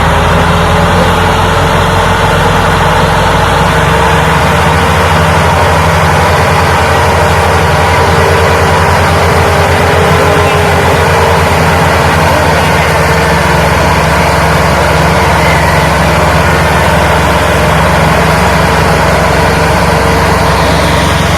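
Tractor engine running loudly and steadily while pulling a heavily loaded trolley, with an even low pulsing throughout.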